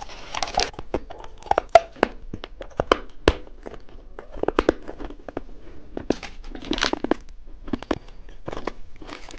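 Candy wrapper being crinkled and torn open: an irregular run of sharp crackles and rustles.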